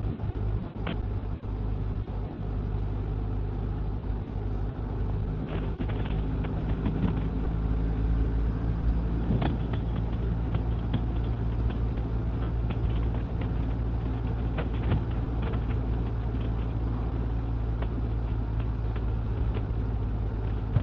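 Motorcycle running steadily at road speed, a constant low engine hum and road noise, with scattered sharp crackles of static on the helmet intercom, which the rider thinks partly comes from power lines.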